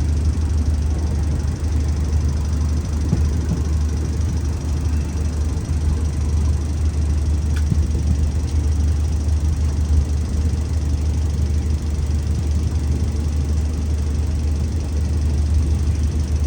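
Diesel-electric locomotive engine running steadily at low revs, a constant deep hum with no change in speed.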